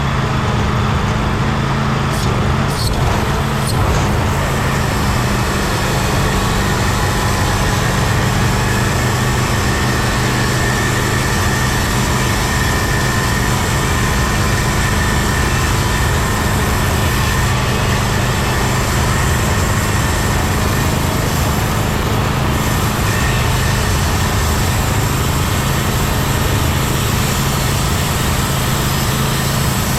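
Engine of a Timberking 1600 band sawmill running steadily and evenly, with a thin high whine over the engine note.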